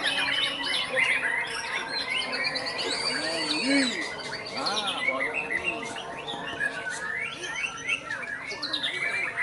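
A dense chorus of small birds chirping, trilling and whistling at once, with many overlapping short calls and arching whistles and no break.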